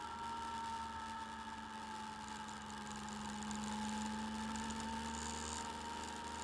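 Motorcycle engine running steadily, heard through a bike-mounted camera's microphone, its pitch sagging slightly and then rising again.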